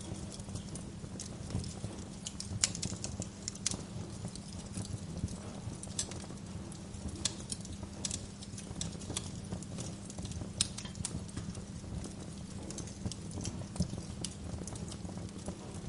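Wood fire crackling in a fireplace: irregular sharp pops and snaps over a steady low rumble of the burning flames, with a few louder pops.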